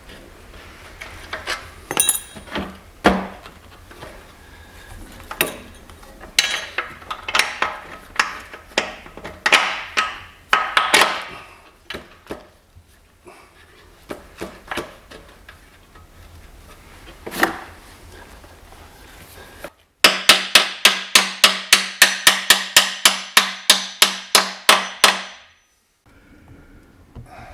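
Metal tools knocking and clanking irregularly during work on a car in a garage. Near the end comes a run of sharp, evenly spaced clicks, about four a second, over a steady hum; the run lasts about five seconds and stops abruptly.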